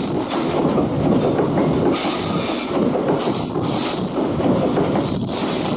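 Open-top coal wagons of a Babaranjang coal train rolling past, their steel wheels running over the rails in a steady dense noise. A high hissing wheel noise swells and fades several times.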